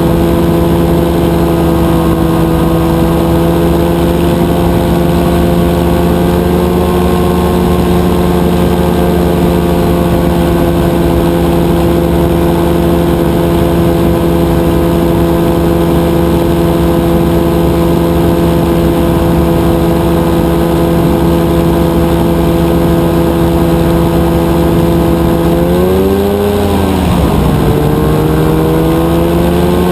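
Rotax 582 two-stroke twin engine of a powered parachute running steadily in flight. About 26 seconds in, its pitch rises briefly, then dips and recovers as the throttle is changed.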